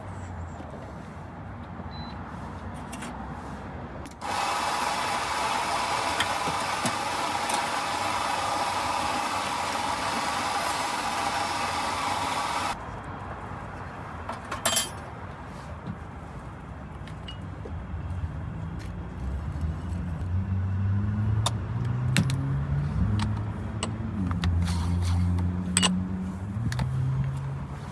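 Espresso machine steam wand hissing steadily for about eight seconds as milk is steamed, starting and stopping abruptly. Then scattered clicks and knocks of cups and equipment, and a vehicle engine running whose pitch shifts up and down near the end.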